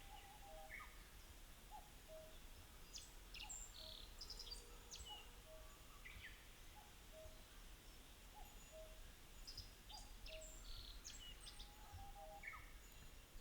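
Faint wild birdsong: a low call repeated steadily about once a second, with two bursts of higher, quick song phrases, one about three seconds in and one about ten seconds in, over a soft steady background hiss.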